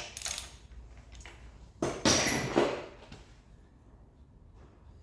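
Metal tools and engine parts clinking and clattering, with one louder clatter lasting about a second, about two seconds in, then little sound.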